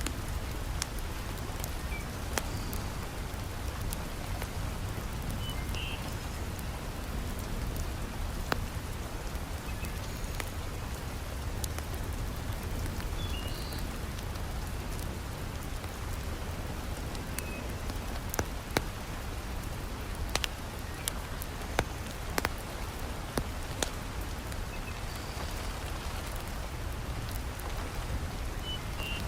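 Heavy rain falling steadily with a deep low rumble, mixed with the crackle of a wood fire in a fireplace: scattered sharp pops, with several louder ones a little past the middle.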